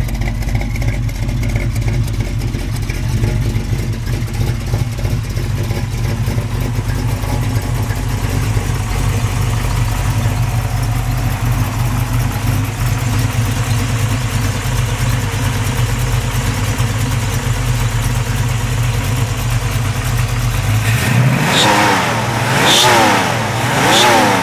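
Ford 347-cubic-inch stroker V8 fed by three two-barrel carburetors, idling steadily, then revved three times in quick blips near the end.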